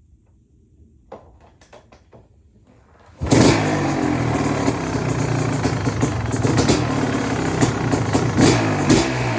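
1991 KTM 500 two-stroke single-cylinder dirt bike being kick-started: a few light clicks, then about three seconds in the engine fires and runs loud, its revs rising and falling unevenly. It is running on richened jetting, a bigger pilot jet and the needle lowered one clip on a PJ carburettor, to cure a surge.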